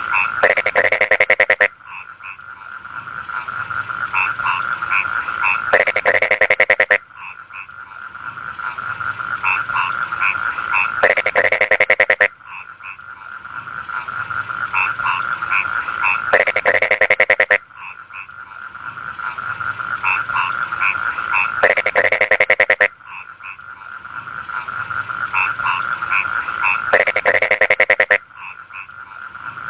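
Frogs in a rice field croaking: a loud rattling call of rapid pulses, about a second long, comes every five seconds or so over a steady chorus of shorter repeated calls and a constant high trill.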